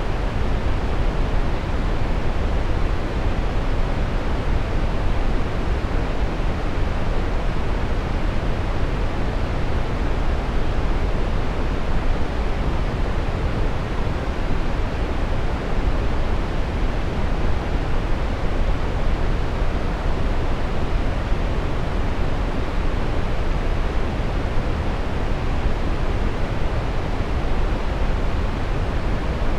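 Brown noise: a steady, even rushing hiss weighted heavily toward the low end, without change or events.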